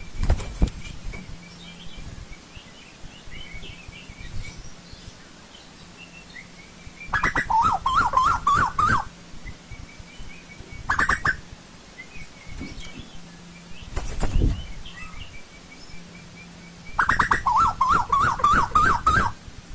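Asian koel calling: loud bouts of rapidly repeated notes, the longest lasting about two seconds, coming every few seconds, with a fainter run of high notes between the bouts.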